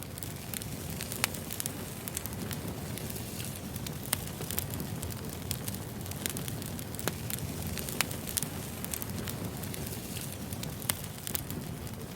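Wood fire burning: a steady low rumble with frequent sharp, irregular crackles and pops of the burning logs.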